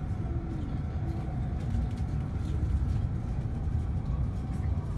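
Shinkansen bullet train running at speed, heard from inside the passenger cabin: a steady low rumble with faint steady tones above it.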